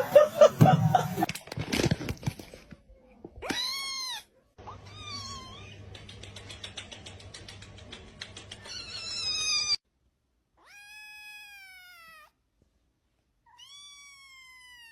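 A cat meowing: about five separate drawn-out meows, the longest near the middle sliding down in pitch. A brief, louder jumble of sound comes right at the start.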